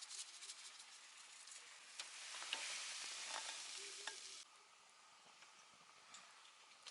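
Food sizzling as it fries in a hot pan, with scattered sharp clicks over the hiss. The sizzle swells about two seconds in and cuts off abruptly about four seconds in, leaving only faint background.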